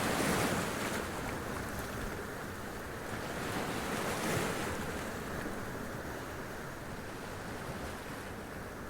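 Sea waves splashing against rocks and running up them, with a continuous wash of surf. Two waves break, one right at the start and another about four seconds in.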